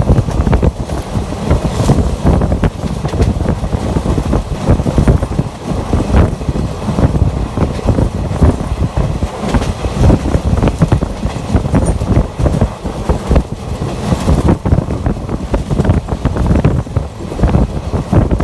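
Express passenger train running at speed, heard from on board: a heavy, steady rumble of wheels on rails with frequent irregular knocks and rattles, and wind buffeting the microphone.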